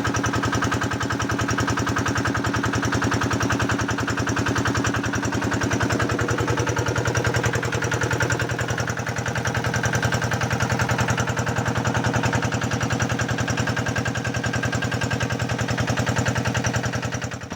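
Diesel engine running steadily at an even, rapid beat, driving a shallow tube well pump that is drawing water for irrigation.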